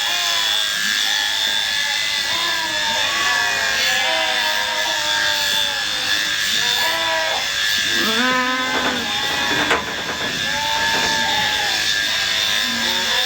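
Electric sheep-shearing handpiece running steadily with a continuous high whine, with short pitched voices or bleats over it.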